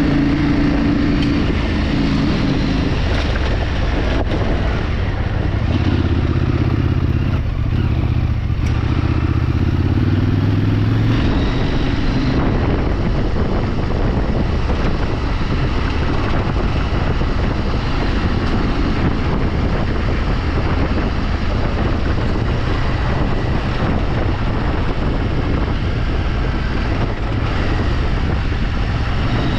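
Off-road motorcycle running under way, its engine note mixed with a steady rush of wind and road noise. The engine sound is strongest and shifts in pitch in the first eleven seconds or so, then the rushing noise dominates.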